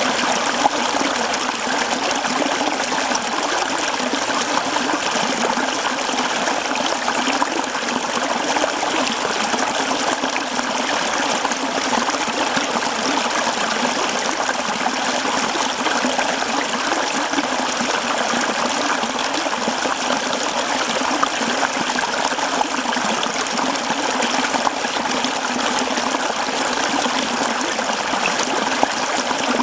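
Mountain stream flowing over rocks: a steady, continuous rush of babbling and trickling water.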